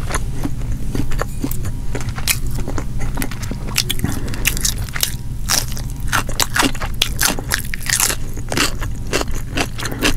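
Close-miked chewing of fried whole fish and a bite of raw cucumber slice about midway, heard as many irregular wet crunches and mouth clicks. A steady low hum runs underneath.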